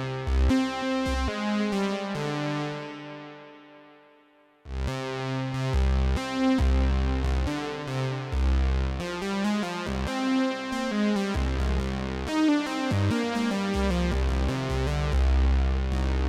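Behringer Poly D analog synthesizer playing a pattern of repeated notes over a deep bass line. About two seconds in, the sound fades away to near silence, then the pattern cuts back in abruptly just before five seconds and carries on.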